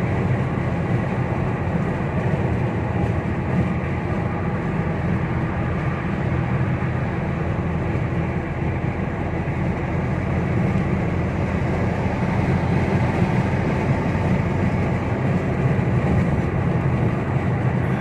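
Steady road and engine noise inside a car's cabin while driving on a motorway, even and unbroken.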